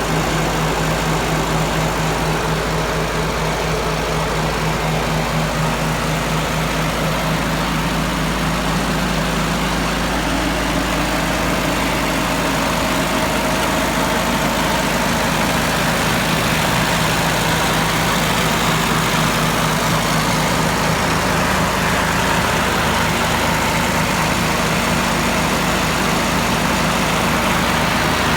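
Farmall B tractor's four-cylinder engine running steadily at idle, with an even, rapid low pulsing.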